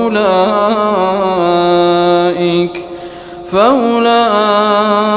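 Male voice reciting the Quran in melodic tajweed style, holding a long drawn-out note that wavers in pitch. A short breath comes about three seconds in, then a new phrase opens on a rising note.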